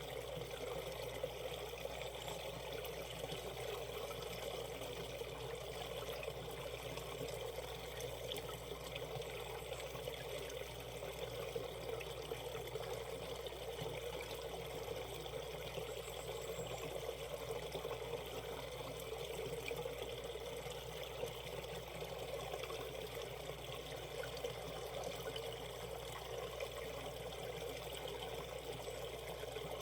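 Valley stream running over shallow rapids: a steady rush and burble of flowing water.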